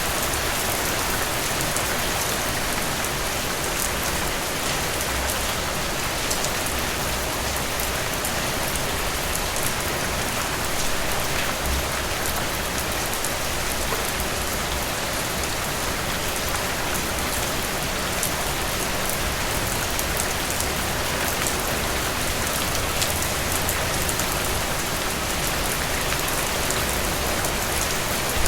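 Steady rain falling on foliage and surfaces, a dense even hiss with scattered drop patters.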